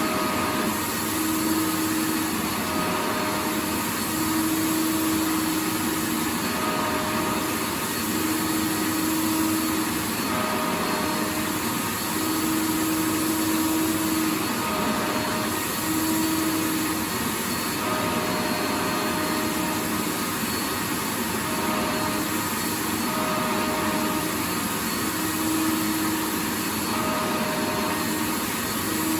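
Vacuum cleaner running continuously: a steady rushing hiss with a motor whine whose tone keeps dropping in and out every second or two.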